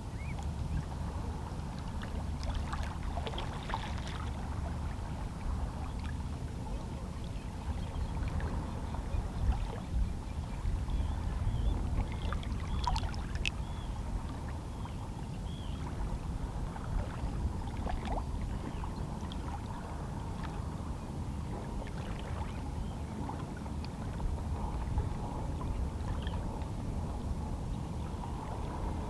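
Calm sea lapping softly against shoreline rocks: small waves slosh and gurgle among the rocks with scattered light splashes over a steady low rumble of water.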